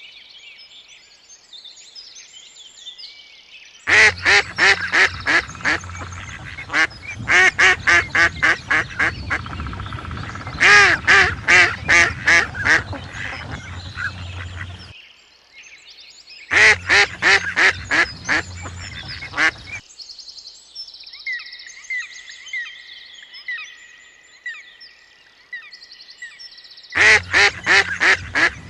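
Ducks quacking in loud runs of rapid calls, about five a second, in three bouts. Softer, higher bird chirping fills the pauses between bouts.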